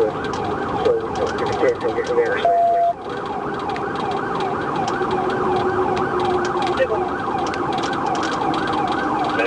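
Police car siren in a fast yelp, its pitch rising and falling about twice a second, with a brief steady beep about two and a half seconds in.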